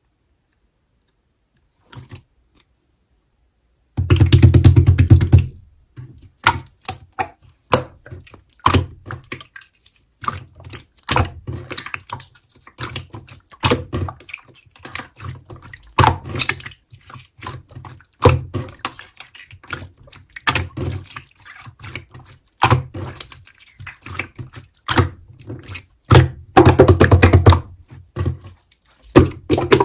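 Clear slime being squeezed and pressed by hand, making irregular wet clicks and pops. There are two stretches of rapid crackling, one about four seconds in and one near the end.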